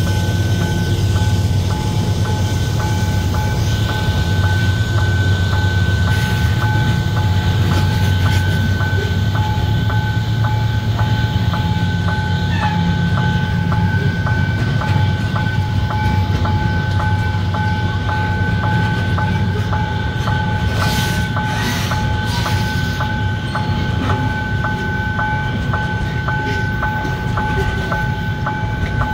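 Freight train of grain hopper cars rolling past with a steady low rumble and wheel clatter, a few sharp metallic clanks near the end. Over it, a two-tone electronic warning tone pulses about twice a second without a break: the level-crossing signal warning of the train.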